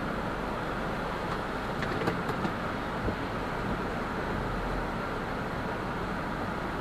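Heavy rain falling in a steady hiss, with a few faint ticks of drops about two seconds in.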